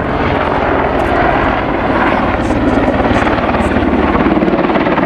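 Boeing AH-64 Apache attack helicopter flying, its rotor blades beating in a fast, even pulse over a steady loud engine and rotor noise.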